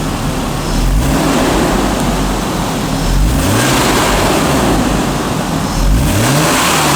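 Jaguar inline-six engine running under load, its revs rising and falling several times, over a steady rushing road noise.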